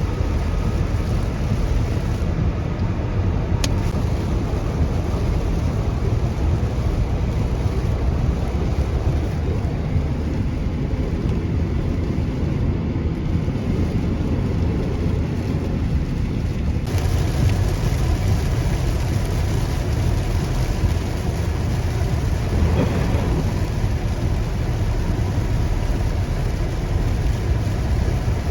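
A car driving on a rain-soaked road in a downpour: a steady, heavy rumble of road and tyre noise with the hiss of rain. About two-thirds of the way through, the hiss gets brighter and louder and stays that way.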